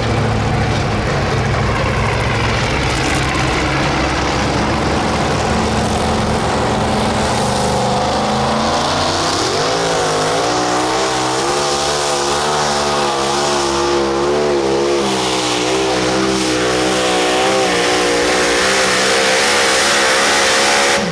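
Super modified two-wheel-drive pulling truck's engine running flat out under load on a pull. It is loud and steady, and its pitch climbs about halfway through and then wavers up and down as the revs rise and fall.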